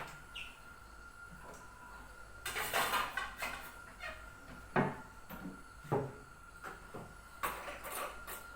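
Kitchen handling sounds: a brief rustle, then several separate knocks of things being set down or handled on a counter, over a faint steady hum.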